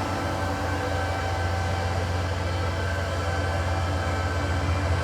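A train running, with a steady low locomotive drone and faint thin steady tones above it.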